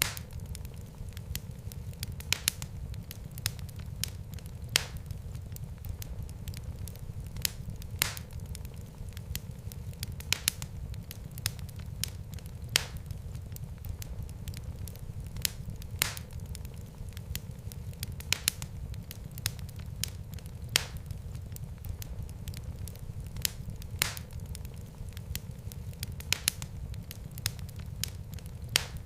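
Fireplace fire crackling: a steady low rumble of flames with sharp pops every second or few.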